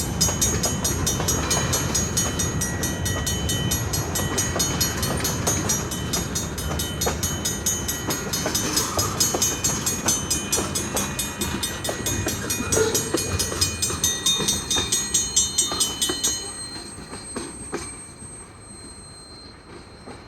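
Train cars rolling past, wheels clattering rhythmically over the rail joints; the noise fades away about three-quarters of the way through as the end of the train goes by.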